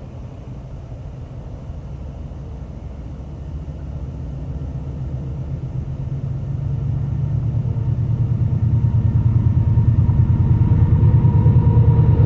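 Diesel locomotive approaching, its deep engine rumble growing steadily louder; a faint high whine comes in near the end.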